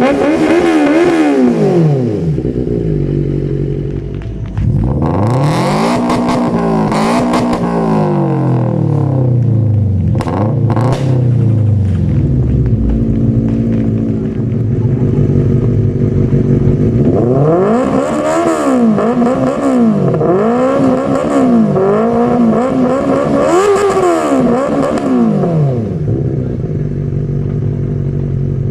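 Four-cylinder engine with an aftermarket exhaust being revved. There is one rev near the start and a longer rise and fall a few seconds in, then steadier running, then a string of quick throttle blips in the second half.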